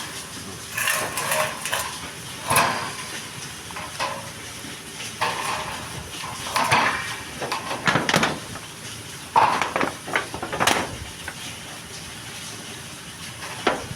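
Irregular metal clinks and knocks: about nine sharp strikes spread over the stretch, with quieter gaps between.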